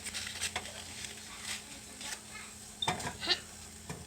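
Dishes and utensils clinking and clattering, with a brief high-pitched cry about three seconds in.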